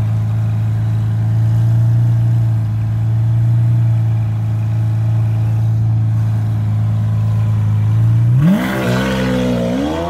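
Lamborghini Aventador SV's V12 idling steadily, then about eight seconds in it revs as the car pulls away, the pitch climbing, dipping briefly and climbing again.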